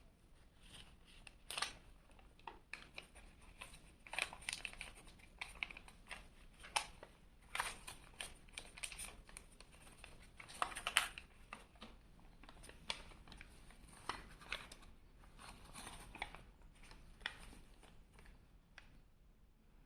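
A sheet of paper rustling and crinkling as it is folded and creased by hand, in irregular short crackles that stop about a second before the end.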